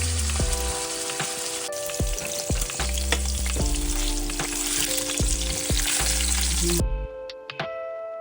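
Food frying in hot oil in a pan, a steady sizzle that cuts off suddenly near the end, with background music underneath.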